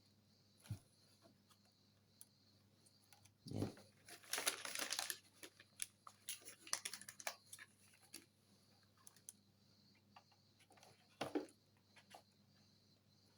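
Faint scattered clicks, taps and rustles of small parts being handled while gluing an RC airplane's rudder, with a louder scraping rustle lasting about a second, four seconds in, and another short cluster of clicks near the end.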